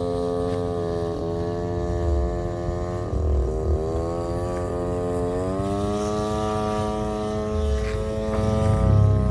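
Two-stroke grass-cutter engine driving the propeller of a flying RC plane, buzzing steadily. Its pitch dips briefly about three seconds in, then climbs and holds higher from about six seconds, with wind rumbling on the microphone.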